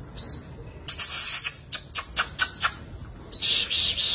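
Sunbird calling in short, high, upward-sweeping notes, then several sharp high chips. About three seconds in it breaks into a fast, continuous high twittering song.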